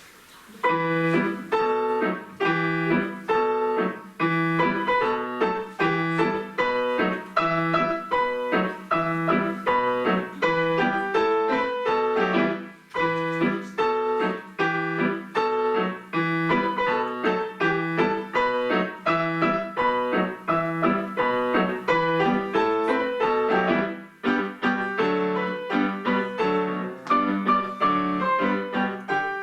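Grand piano played four hands as a duet, a lively piece with a steady, pulsing rhythm that starts about half a second in and briefly breaks twice.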